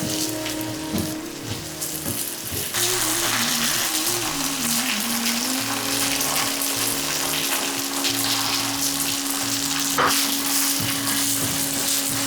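Food frying in a hot pan: a dense sizzle starts suddenly about three seconds in and holds steady, with a single sharp click near the end.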